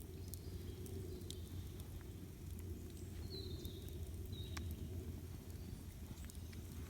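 Campfire crackling, with scattered sharp pops over a low steady rumble. A bird chirps briefly twice near the middle.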